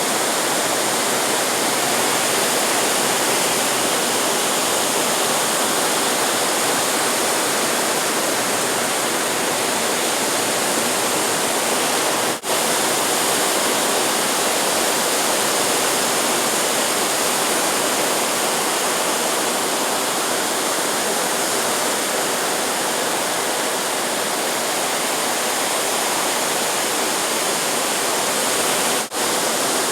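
Steady, even rushing noise of surf breaking, which briefly cuts out twice, about twelve seconds in and near the end.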